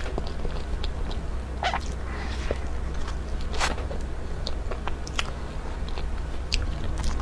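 Close-miked chewing of soft matcha sponge cake, with scattered wet mouth clicks and smacks over a steady low hum.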